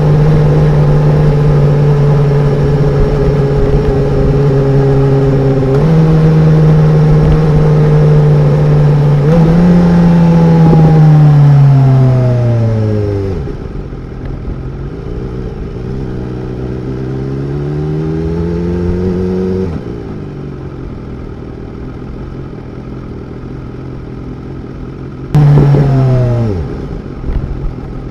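2016 BMW S1000R's inline-four engine on the move: it runs steadily, and a gear change comes about six seconds in. The revs climb, then fall away as the bike slows, climb once more and drop to a quieter note. Near the end a sudden loud burst of engine sound falls away in pitch.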